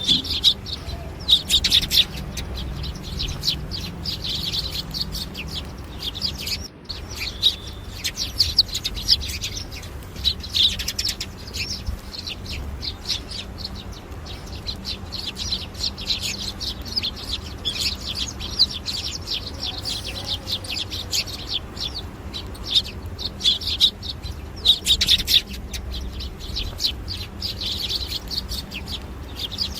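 Small birds chirping and tweeting, a steady stream of quick, high calls, over a low background rumble, with a brief break about seven seconds in.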